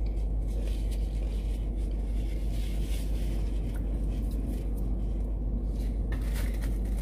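Steady low rumble of a car's idling engine and cabin, heard from inside the car, with a few faint soft clicks or rustles near the end.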